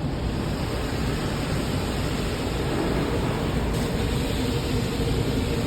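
Automatic car wash running, heard from inside the car: a steady rushing noise of spray and machinery that grows slightly louder.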